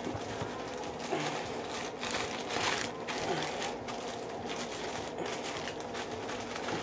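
Plastic bread bag crinkling and rustling with irregular scrapes as small sandwiches are worked into it, over a faint steady hum.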